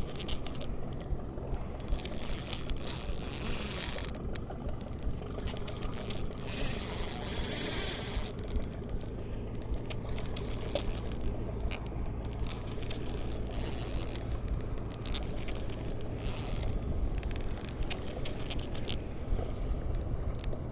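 Spinning reel cranked in bursts against a big hooked fish, its gears whirring with ratcheting clicks. A motorboat's engine drones low and steady underneath.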